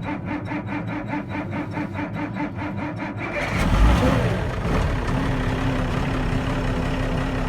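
Case 5140 tractor's Cummins 5.9 diesel being cold-started: the starter cranks it in an even rhythm, it catches about three and a half seconds in, revs briefly, then settles into a steady idle.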